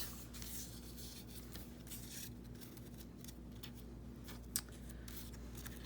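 Scissors cutting paper in short snips, with soft paper rustling and a sharper click about four and a half seconds in.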